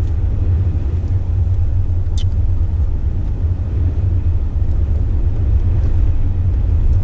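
Steady low rumble of a Jeep's running engine and road noise heard inside the cab, with one brief high click about two seconds in.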